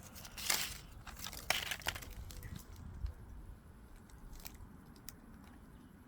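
Two short crunching rustles, about half a second and a second and a half in, followed by a few faint clicks.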